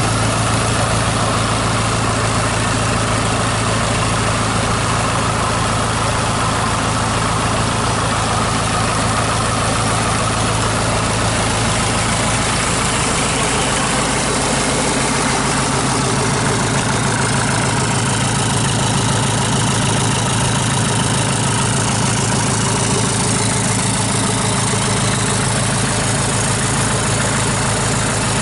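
SsangYong 664950 2.0-litre diesel engine idling steadily on a test run out of the vehicle. Its note rises slightly about halfway through and then holds.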